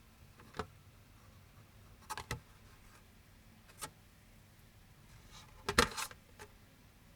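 A few light clicks and taps from handling a small die-cast toy pickup truck, with the loudest quick cluster of knocks about six seconds in.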